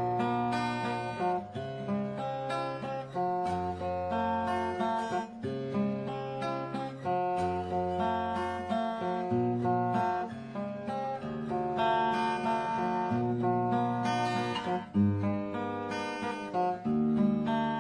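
Acoustic guitar being played: picked and strummed chords with a moving bass line, the notes changing every second or two and ringing on.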